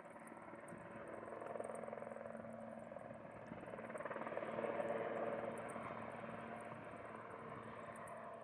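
A firefighting aircraft's engines heard in flight, a steady drone with a held hum that swells to a peak about five seconds in and then eases off as the aircraft passes.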